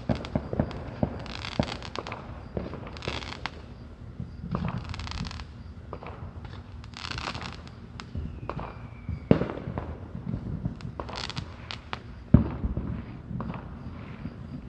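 Fireworks going off: scattered bangs and bursts of crackling, with the loudest bang about twelve seconds in.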